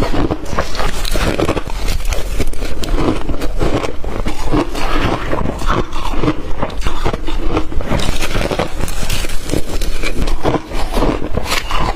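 Blender-crushed ice being chewed up close: a dense, continuous run of crunches and crackles, with a brief lull about ten and a half seconds in.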